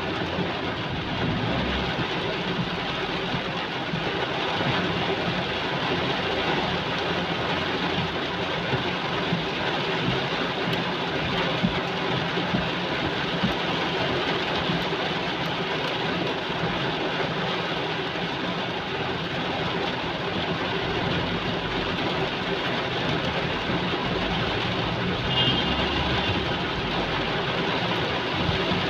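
Heavy rain falling as a steady, even downpour.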